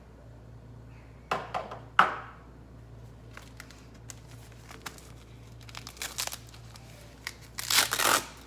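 Handling noise: short crinkling rustles and light clicks in three bouts, the loudest near the end.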